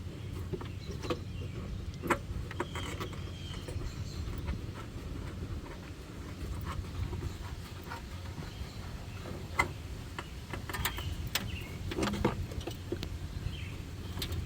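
Scattered light clicks and knocks of parts being fitted back together in a truck's engine bay, over a low steady rumble.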